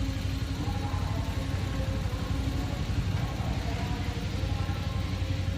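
Passenger train rolling into a station, a steady low rumble with faint wavering tones above it.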